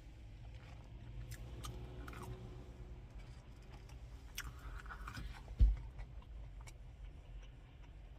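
A person chewing food close to the microphone, with small wet mouth clicks. A single low thump comes a little past halfway.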